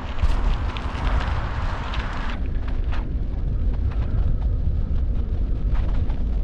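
Wind buffeting the microphone, a steady low rumble, with a broader hiss that drops away about two and a half seconds in.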